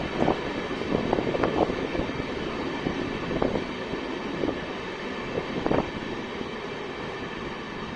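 Express train running, heard from on board: a steady rumble of wheels on the track with scattered knocks and rattles, the last clear one near six seconds in.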